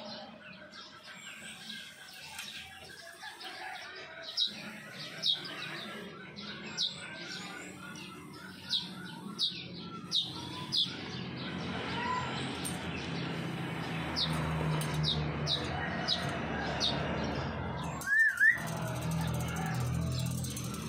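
Small bird chirping: a run of short, sharp, high chirps about once a second, then a louder two-note call near the end.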